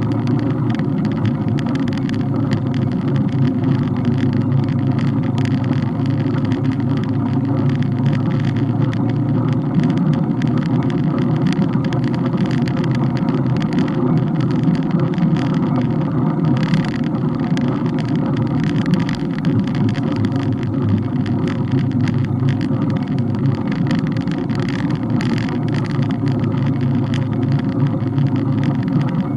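Steady rumble of wind and road noise picked up by a camera mounted on a moving bike, with many small clicks and rattles running through it.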